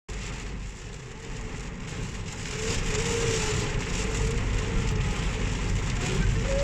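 Steady rain falling, with a low rumble underneath, growing louder about two seconds in. A faint wavering tone rises and falls through the middle.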